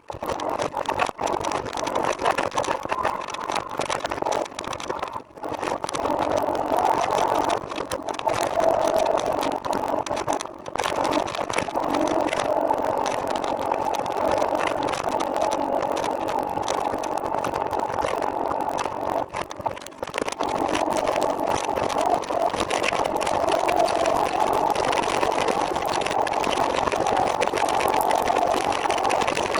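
Steady rushing, rattling noise of riding a trike, with brief drops about 5, 10 and 20 seconds in.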